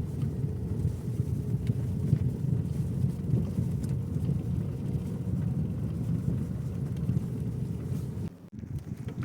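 A car driving on a road: a steady low rumble of tyres and running gear. The sound drops away suddenly near the end.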